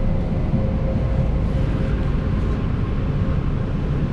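Automated airport people-mover tram running between stations, heard from inside the car: a steady low rumble with a faint steady whine.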